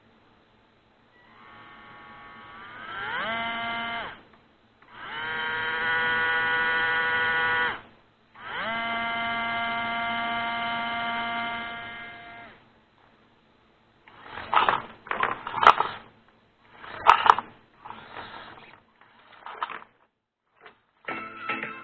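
WPL C24-1 RC truck's 370 electric motor and reduction gears whining, its gearbox freshly lubed and running smoothly. Three runs: the first rises in pitch as it speeds up, and the next two hold steady. Then come a few short, uneven bursts of noise.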